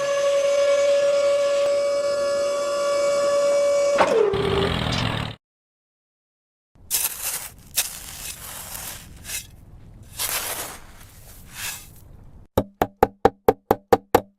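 A steady horn-like tone for about four seconds that sags in pitch as it stops, then after a short gap scattered knocks and rattles, and near the end a quick, even run of pitched knocks, about four a second.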